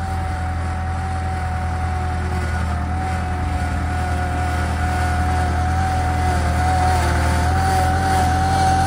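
Skid steer engine running steadily under work, a low hum with a thin steady high whine over it, growing a little louder near the end.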